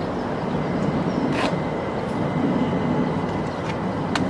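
c2c electric passenger train running past and moving away, a steady rumble of wheels on the rails, with two short clicks.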